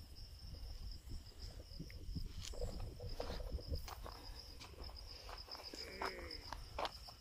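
Crickets chirring in a steady high trill, with footsteps and scuffs on the road surface as the camera is carried along. About six seconds in, a brief call with falling pitch.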